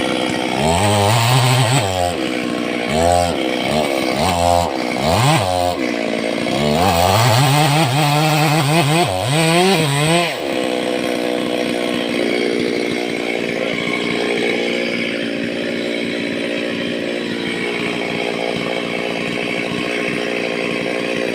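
Stihl two-stroke chainsaw revving up and down, about six surges in the first ten seconds, then running steadily.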